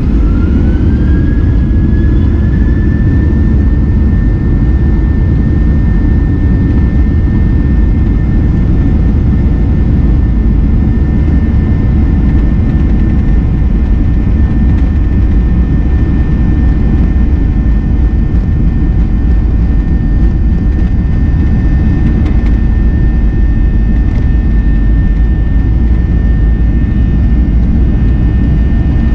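Boeing 737 jet engines heard from inside the cabin, spooling up to high thrust. A whine rises over the first two seconds and then holds steady above a heavy, continuous rumble.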